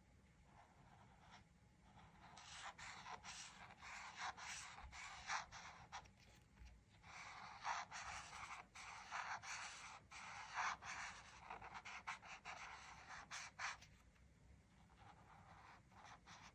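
Faint colouring strokes on paper, a scratchy hiss of quick back-and-forth strokes in two long runs with brief pauses between them.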